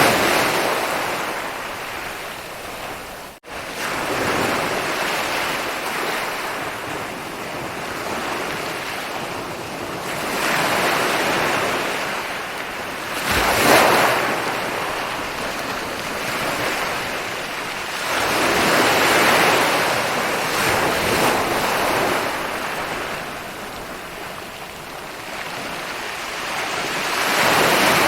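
Ocean waves breaking and rolling onto a beach, swelling and falling back every several seconds, with a brief dropout about three seconds in.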